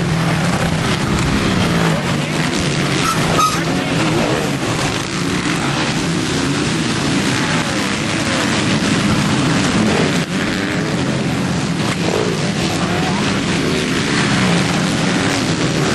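Several motocross bikes racing, their engines revving up and down without a break.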